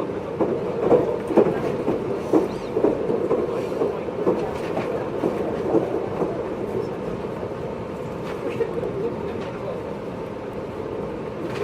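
JR 583 series electric train heard from inside motor car MoHaNe 582 while running, with a steady rumble of running noise. Wheels clack over rail joints every half second or so, and the clacks thin out after about six seconds.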